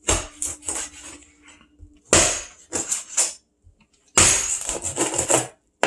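A meat cleaver chopping chicken through the bone on a cutting board: runs of quick, sharp strikes in three bursts, the last one dense and rapid.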